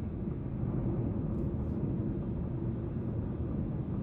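Steady rumble of a car driving along the highway: engine and tyre road noise at an even level.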